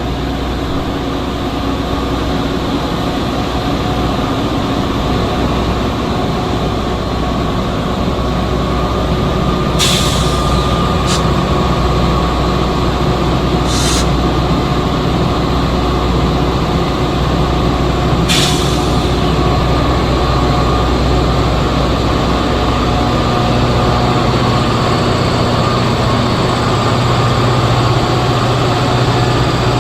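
Train running past on a diesel-worked line, a steady loud rumble and drone, with four short sharp hissing noises in the middle.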